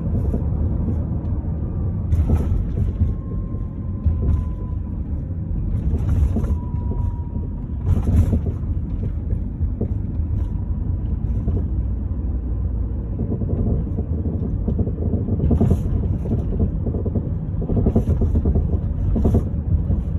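Nissan Qashqai J10 in motion, with a steady low road rumble and sharp knocks at irregular intervals, about six in twenty seconds: the unidentified knock the owner is trying to trace.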